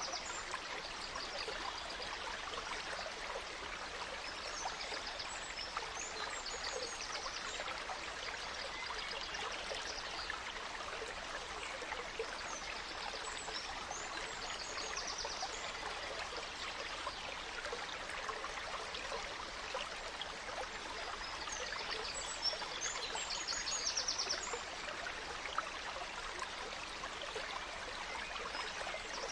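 A gentle stream running steadily, with forest birds singing short, rapid phrases high above it every few seconds.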